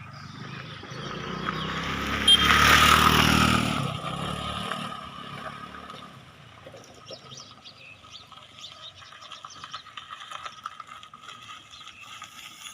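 A car driving past close by: its engine and tyre noise swell over a couple of seconds, peak about three seconds in, then fade away as it moves off, leaving faint scattered crackles.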